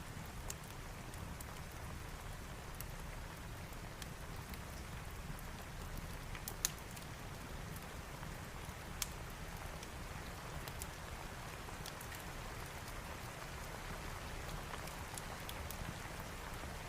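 Steady rain, with a fire crackling in a fireplace: scattered sharp pops over the even hiss, two louder ones about seven and nine seconds in.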